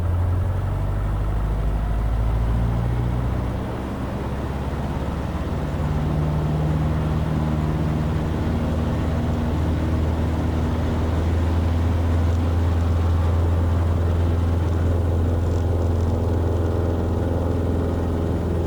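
Cessna's piston aircraft engine running steadily. About four seconds in the sound dips briefly, then grows stronger from about six seconds in and holds there, as with power coming up for takeoff.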